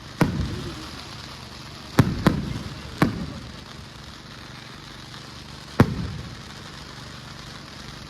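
Display fireworks bursting overhead: five sharp bangs, each trailing off in a low rumbling echo. Two come close together about two seconds in, and another follows a second later.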